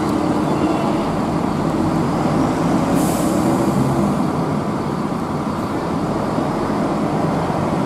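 Diesel engine of a sleeper coach bus running steadily as it pulls out, with a short hiss of air from its brakes about three seconds in.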